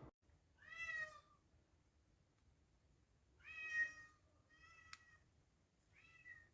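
Domestic cat meowing four times: two clear meows about a second in and about three and a half seconds in, then a fainter one and a short one near the end. A single sharp click comes near the fifth second.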